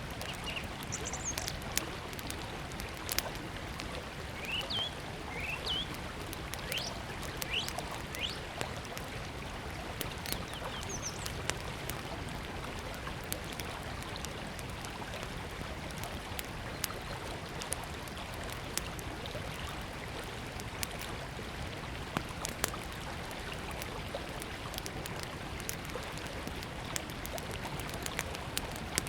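A river flowing steadily, with a small wood fire crackling in sharp pops and clicks throughout. Birds chirp briefly during the first ten seconds or so.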